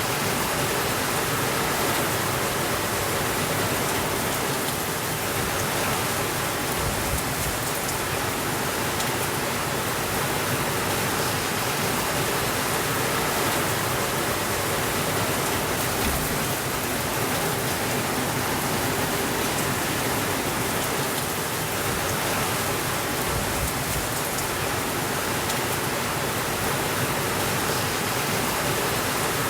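Heavy rain falling steadily against a window, an even hiss with no thunder.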